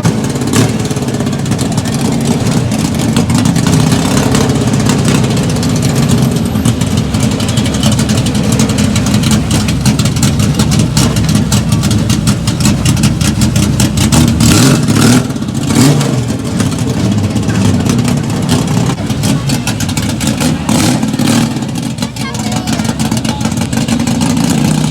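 Chevrolet Opala engines with loud exhausts running and being revved: a fast, rough pulsing throb throughout, with a few sharper revs a little past the middle. Voices can be heard around them.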